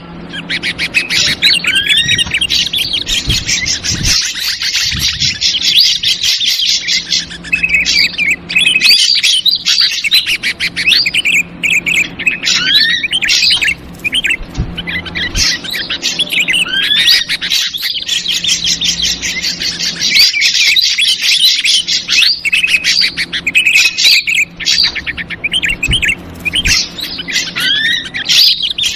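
Ashy drongo calls played as a bird-trapping lure: dense, rapid chattering mixed with short rising whistles, going on almost without a break. A faint steady low hum lies underneath.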